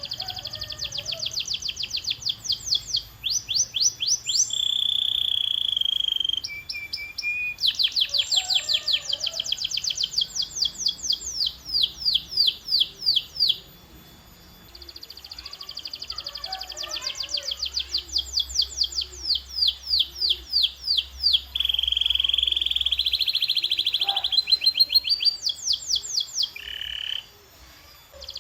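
Canary singing: long rolling trills of fast repeated high notes, broken by a few held whistled tones, with a short pause about halfway through.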